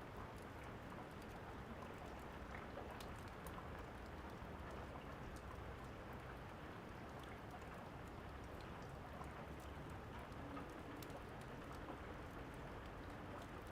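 Steady rain hissing, with many small sharp crackles of a wood fire scattered through it.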